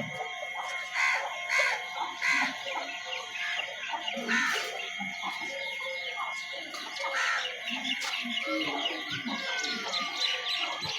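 Chickens clucking, with chicks peeping: several louder calls in the first half and a busy run of short high peeps near the end.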